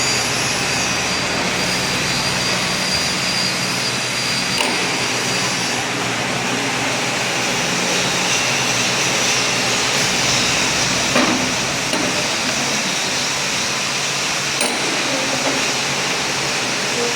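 BFW HF 3.5 milling machine running under power: a steady mechanical drone of motor and gearing with a high whine. About six seconds in the pitched hum and whine drop away while the machine keeps running, and there are a few light knocks.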